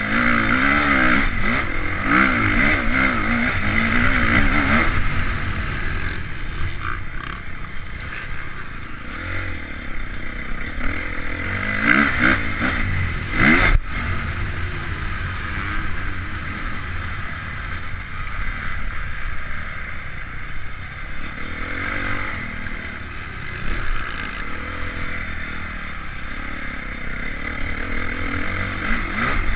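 Honda CRF450 motocross bike's single-cylinder four-stroke engine revving hard and falling back over and over as it is ridden round the track, heard from a camera on board. The revs swing up and down quickly in the first few seconds and again about twelve seconds in, with a sharp knock just before fourteen seconds.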